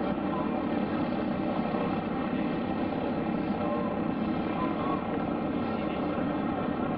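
Steady drone of a light aircraft's piston engine and propeller, holding an even pitch with no change in power.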